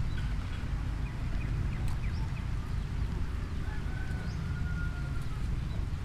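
Outdoor rural ambience: scattered bird chirps and one longer held whistled call in the middle, over a steady low rumble.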